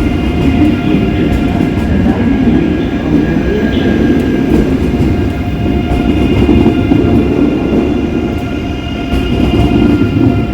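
Train moving on a track close to the platform: a loud, steady rumble with several steady high tones over it.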